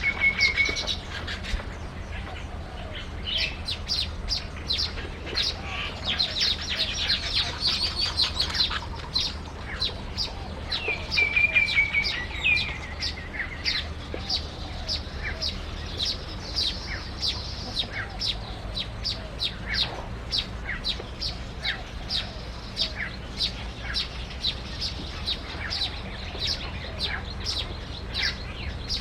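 Small songbirds chirping: rapid short high calls repeating throughout, with a brief trill near the start and another about eleven seconds in.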